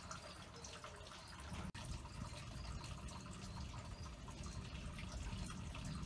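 Faint rain dripping and pattering over a low rumble as a storm moves in, slowly getting louder.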